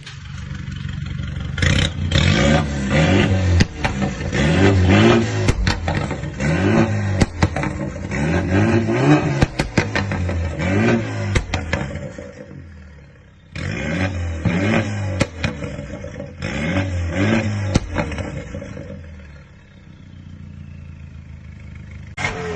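BMW F30 2.0-litre engine revved repeatedly through a straight-through exhaust, each rev rising and falling, with sharp pops and crackles on the overrun from a 'popcorn' tune. It settles to a lower, steadier run near the end.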